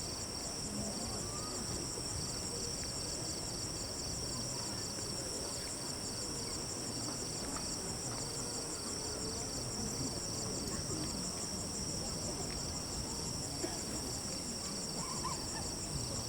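Steady chorus of night insects trilling, a high, finely pulsing buzz that never lets up, over a faint low murmur of distant voices.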